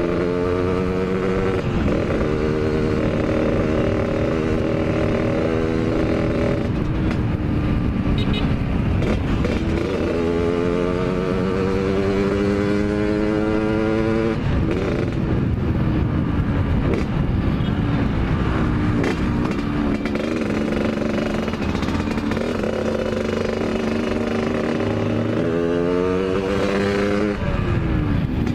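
Yamaha RX-King two-stroke single-cylinder motorcycle engine under way, revving up and shifting gears. The pitch climbs three times and falls sharply at each shift, with steadier cruising between, over wind noise.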